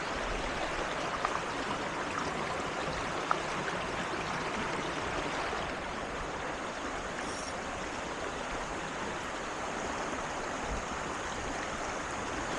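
Creek water flowing steadily, with a couple of small clicks in the first few seconds.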